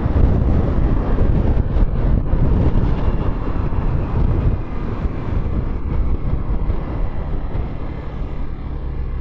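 Motorcycle riding, with wind rushing over the microphone and the engine running underneath. The rush eases in the second half, leaving a steadier engine hum.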